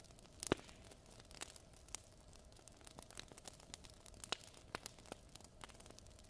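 Wood fire crackling: irregular sharp pops and snaps over a faint steady hiss, with the loudest pop about half a second in.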